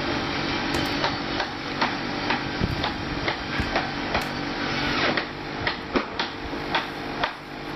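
A steady mechanical hum with a string of irregular sharp clicks and knocks, about two a second, on top.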